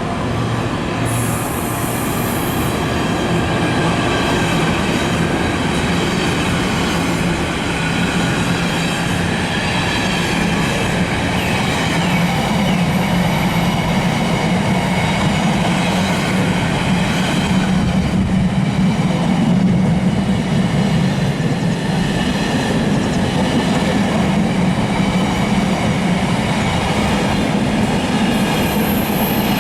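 A train running along the rails: a steady rumble of wheels with several high ringing tones held over it, growing a little louder toward the middle.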